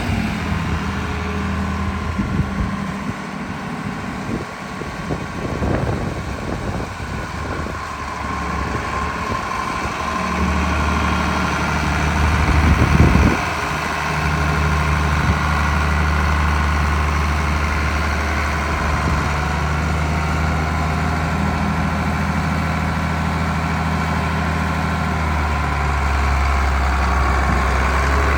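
IH 1066 Turbo tractor's turbocharged six-cylinder diesel running. Its engine note shifts in the first third and surges louder for about a second a little before halfway, then runs at a steady pace.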